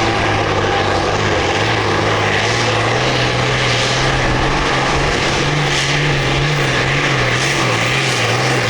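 Farm tractor engine running hard under load, pulling a weight-transfer sled. The steady drone wavers slightly in pitch.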